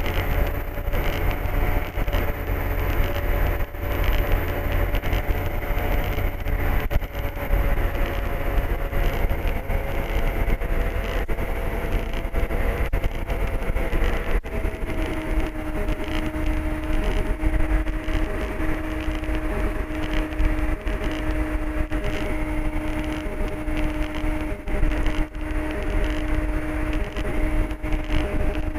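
Ultralight aircraft's piston engine and propeller droning steadily, heard from inside the cockpit. About halfway through the engine note drops slightly and a lower steady hum joins in.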